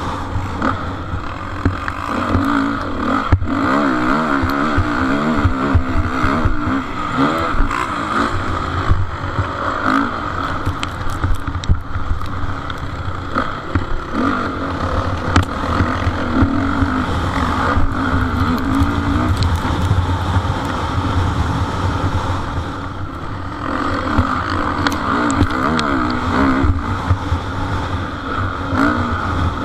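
Motocross motorcycles racing, their engines revving up and down repeatedly as the riders work the throttle.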